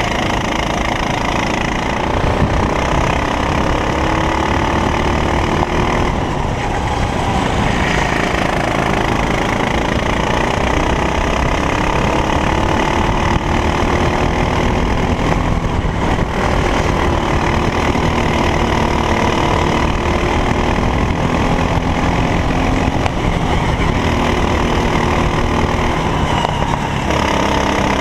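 Racing kart engine running at race pace, its revs climbing and dropping again and again as it accelerates out of corners and lifts into them.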